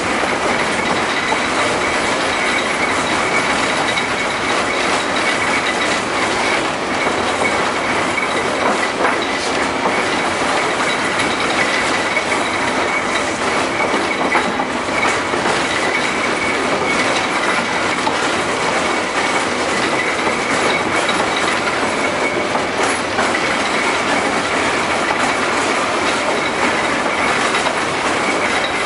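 LM-68M tram running along the track: a steady loud rumble of wheels on rails with a constant high whine over it and a few faint knocks.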